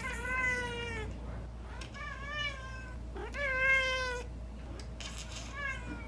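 A domestic cat meowing four times, drawn-out calls of about a second each, the last one shorter.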